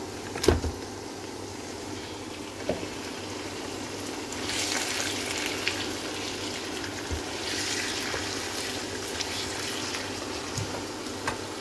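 Raw chicken pieces hitting hot oil with frying onions and garlic in a wok, sizzling steadily. There is one sharp knock about half a second in, and the sizzle swells twice, about four and a half and seven and a half seconds in.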